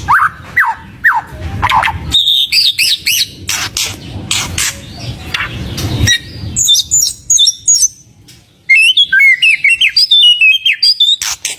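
White-rumped shama (murai batu) singing a rapid, varied song of whistled glides, trills and sharp clicking chip notes. The song breaks off briefly about eight seconds in, then resumes loud and dense.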